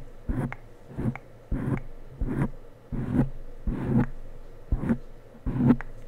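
Rhythmic rubbing strokes very close to the microphone, about two a second, each starting with a sharp click, stopping near the end.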